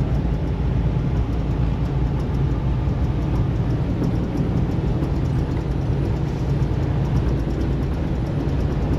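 Steady low rumble of a semi-truck's engine and road noise heard inside the cab while driving on the highway.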